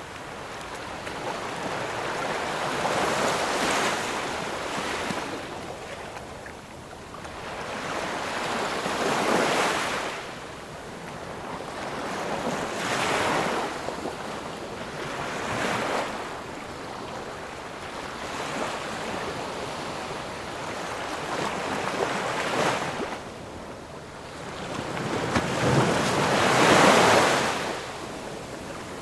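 Ocean surf: waves breaking and washing up the shore, a rush of noise that swells and fades every few seconds, the loudest wave near the end.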